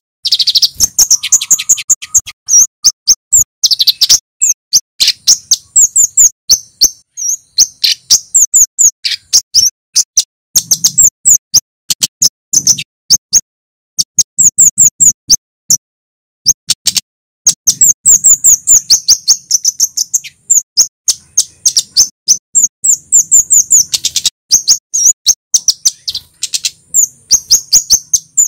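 Male kemade, a flowerpecker, singing loudly in rapid runs of short, sharp, high-pitched "cit" notes, broken by a few brief pauses.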